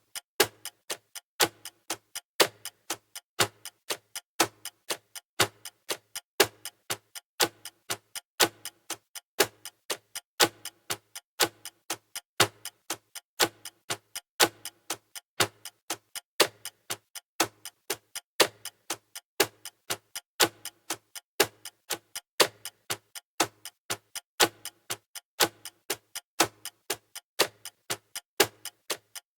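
Clock-style ticking sound effect of a countdown timer: sharp, even ticks at a steady pace of about two a second, alternating louder and softer like a tick-tock.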